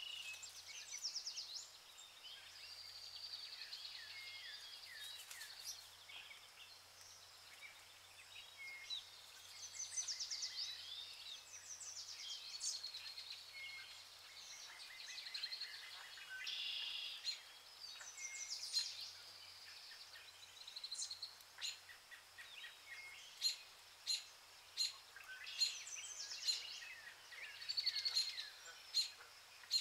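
A chorus of songbirds chirping and trilling, many calls overlapping. In the last several seconds a series of short, sharp chirps stands out above the rest.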